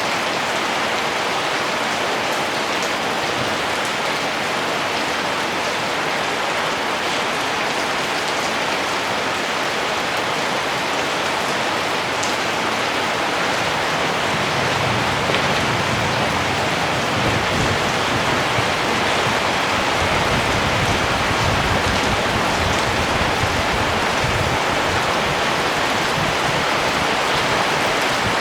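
Steady rain falling, an even hiss of many drops. About halfway through, an uneven low rumble joins in underneath.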